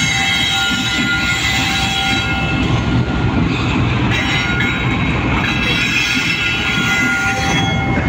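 A diesel-hauled freight train passes slowly at close range with a continuous low rumble of locomotive and wagons. A high, steady, multi-tone sound rides over it twice, each time for about three seconds with a short break between.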